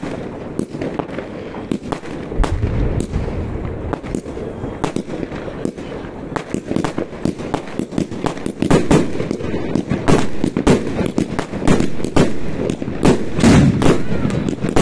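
Fireworks going off: many sharp, irregular bangs and crackles over a continuous rumble, coming thicker and louder about halfway through.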